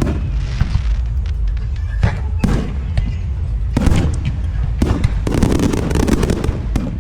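Professional aerial fireworks bursting in quick succession, deep booms over a continuous low rumble. From about five seconds in, a dense run of crackling.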